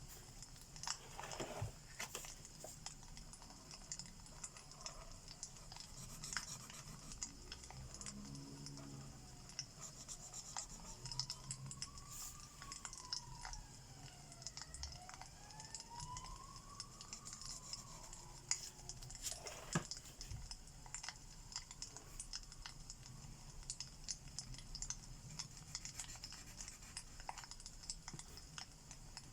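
Fireplace crackling with a steady hiss, mixed with the scratch of alcohol marker tips on paper. From about ten seconds in, a faint siren wails slowly up and down twice.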